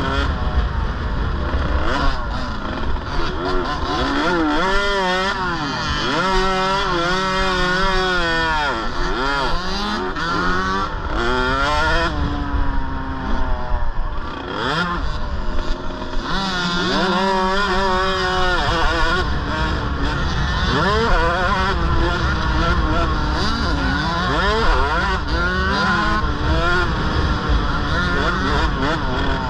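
KTM 65 mini motocross bikes' small two-stroke engines running hard, their pitch climbing and dropping over and over as they rev through the gears. At times two engines are heard at different pitches.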